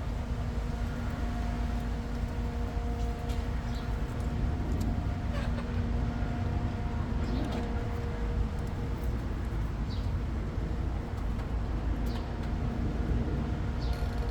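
Steady low mechanical rumble with a droning hum, and short high bird chirps every second or two.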